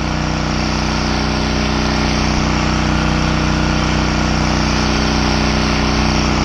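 Pressure washer running steadily, its engine drone under a continuous hiss of spray as the wand sprays bleach solution through a high-reach tip onto vinyl siding.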